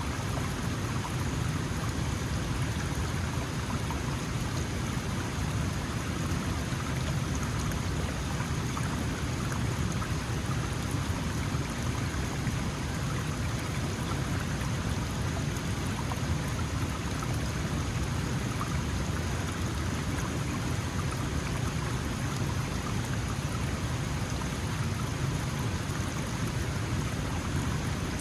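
Small mountain stream flowing and babbling over rocks, a steady rushing with a deep low rumble under it.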